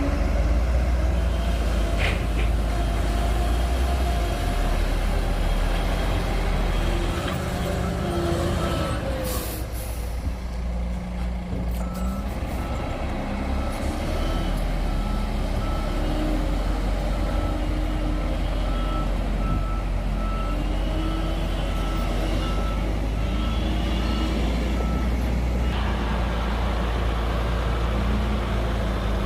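Bulldozer's heavy diesel engine running steadily under load. A reversing alarm beeps in an even rhythm from about a quarter of the way in until near the end, pausing briefly once.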